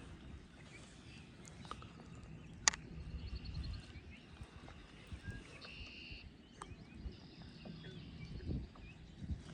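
Birds singing faintly over a low wind rumble on the microphone. A single sharp click about two and a half seconds in, and a few light knocks.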